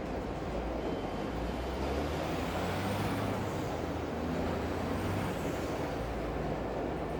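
Low, steady rumble of a passing train in a city ambience under a continuous hiss, with faint high-pitched whining glides about three and five seconds in.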